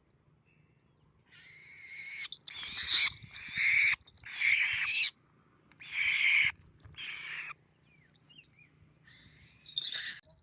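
A bird gives a series of harsh, raspy screeching calls, about six in a row, each lasting half a second to a second.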